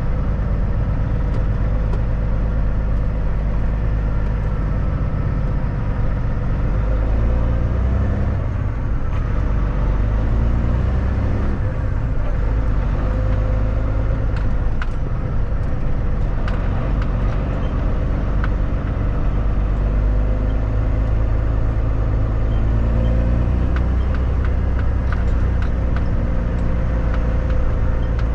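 Kenworth W900 semi truck's diesel engine running steadily while driving, with its note stepping up and down in pitch a few times about a third of the way in.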